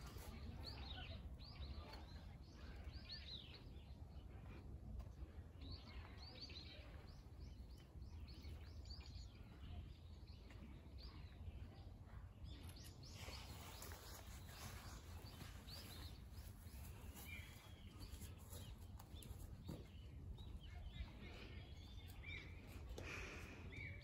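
Small birds chirping faintly in short, repeated calls, over a low steady rumble of background noise.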